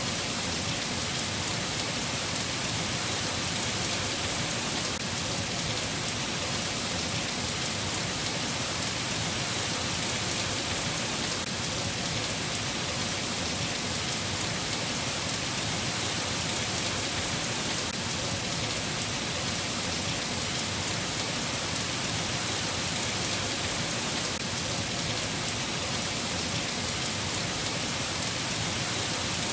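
Steady rain falling, an even hiss that holds at the same level throughout, with no thunder.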